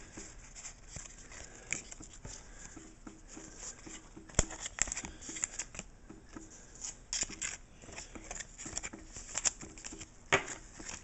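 Pokémon trading cards being handled and slid one behind another, a run of soft scrapes and small clicks, with a sharper click about four seconds in and another near the end.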